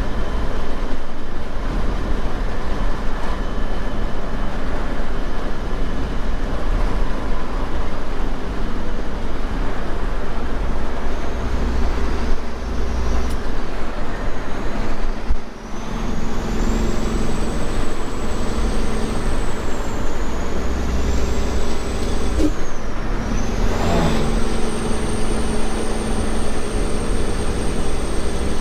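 Semi truck's diesel engine and road noise heard from inside the cab, a steady low rumble. From about halfway through, a high thin whine rises and falls over it.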